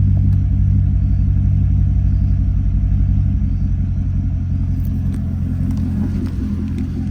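Car engine idling with a steady, deep exhaust rumble.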